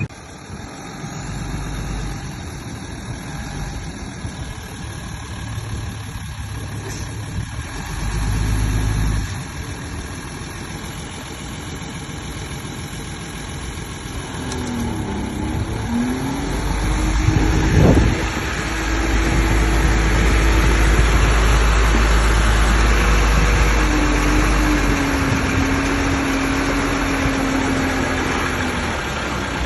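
Bulldozer's diesel engine running, getting louder about halfway through as it works harder, with a wavering whine over it in the second half.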